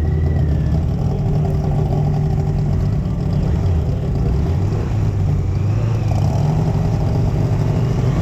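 Motorcycle engine idling steadily at the drag strip start line, a low, even engine note.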